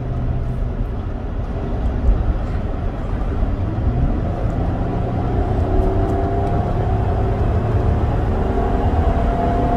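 Road noise inside a moving vehicle: a steady low rumble from engine and tyres, with a faint whine that rises slowly in pitch through the second half as the vehicle speeds up.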